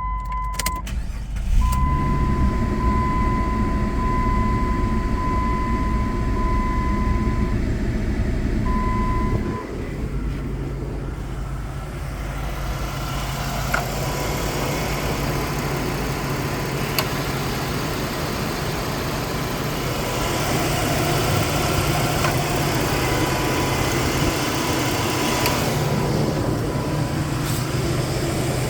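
2005 Jeep Liberty's engine running steadily after a drive. A steady high-pitched tone sounds over it for about the first nine seconds, then stops.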